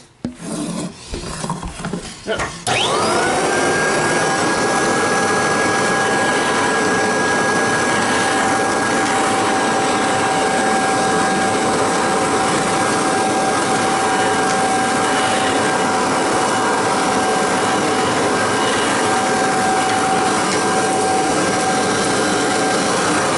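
A few seconds of handling knocks and clatter, then a Kirby Heritage II vacuum's motor is switched on, spins up quickly and settles into a steady running whine with an air rush. The vacuum is set up as a canister with a hose and wand for bare floor.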